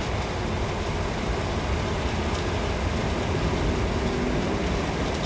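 Steady rain falling, an even hiss over a continuous low rumble.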